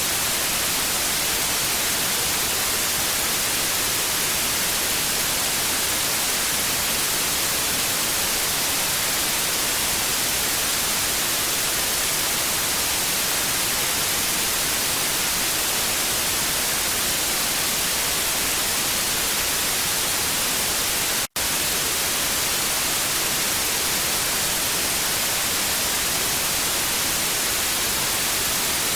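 Television static: a steady, even hiss, strongest in the treble. Once, about two-thirds of the way through, it cuts out for a split second and comes straight back.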